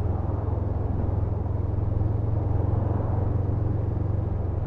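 Honda CMX500 Rebel's parallel-twin engine running steadily while riding, heard as a constant low rumble.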